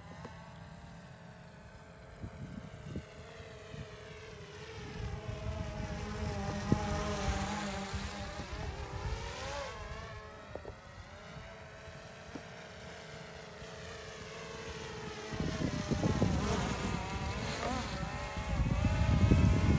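Small quadcopter drone buzzing in flight, its whine rising and falling in pitch as it manoeuvres. A rough low rumble from about three-quarters of the way in, like wind on the microphone, grows loudest near the end.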